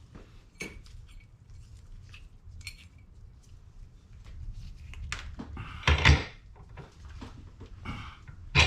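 Metal steering-box parts clinking and being set down on a workbench, with scattered light clicks and two louder clattering knocks, one about six seconds in and one near the end.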